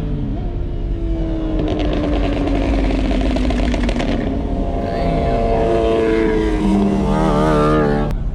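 Car engines revving and running at a car meet, their pitch rising and falling. Near the end there is a wavering pitched tone.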